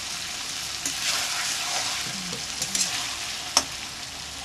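Mutton, liver and tomatoes sizzling in an oiled steel kadhai while being stirred, a steady frying hiss. A metal utensil scrapes and clicks against the pan a few times, the sharpest knock coming about three and a half seconds in.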